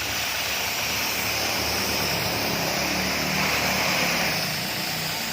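A machine running steadily, a low motor hum under a strong hiss, with the hum strongest in the middle.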